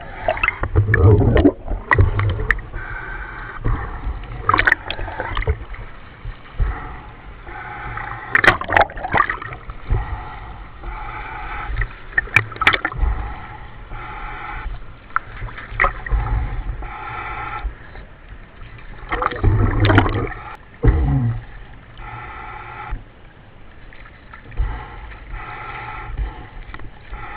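Commercial diver's breathing and exhaust bubbles in a surface-supplied diving helmet, heard over the narrow-band diving radio as irregular gurgling surges every few seconds between stretches of steady hiss.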